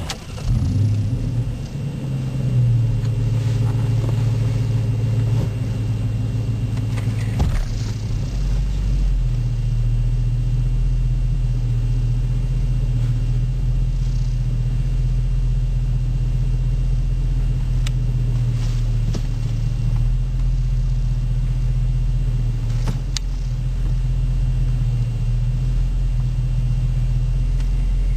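2008 Dodge Charger R/T's 5.7L Hemi V8 with a Zoomers aftermarket exhaust, heard from inside the cabin, starting up and idling with a deep steady rumble. The idle changes pitch about eight seconds in, then holds steady.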